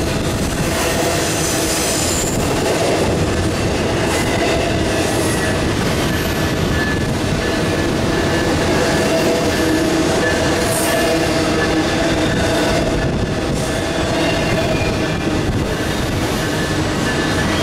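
Double-stack intermodal freight cars rolling steadily past: a continuous rumble of steel wheels on rail, with thin held squealing tones from the wheels on the curve.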